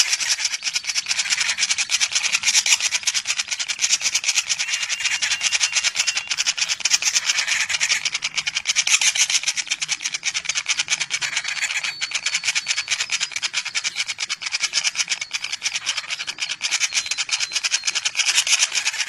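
Common flameback woodpecker nestlings begging: a fast, unbroken chatter of rapid, closely packed notes, high and hissy in tone.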